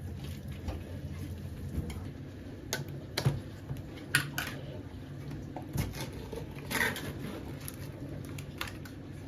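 Scattered light knocks and clicks, irregular and several seconds apart, over a steady low hum.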